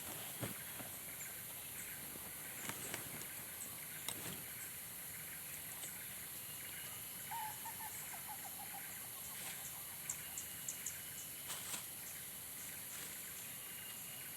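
Faint outdoor ambience at the campsite: a steady hiss with scattered light ticks, and a short run of chirping calls about seven seconds in.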